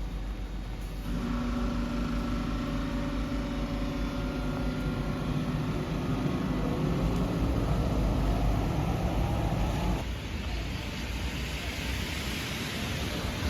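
A motor vehicle running, a steady hum with a whine that rises in pitch as it speeds up, giving way about ten seconds in to a steady hiss.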